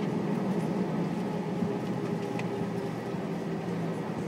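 Steady cabin drone inside an Airbus A320 taxiing, with the jet engines running at taxi power, plus a faint steady tone and a small tick about two seconds in.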